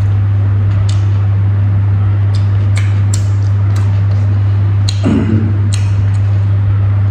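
Close-up eating sounds: short wet clicks and smacks of chewing with the mouth full while eating rice and boiled pork by hand, and a brief low vocal sound about five seconds in. A loud steady low hum runs underneath.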